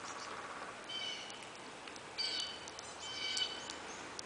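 Bird calling in the background: three short chirping phrases about a second apart, over faint outdoor hiss.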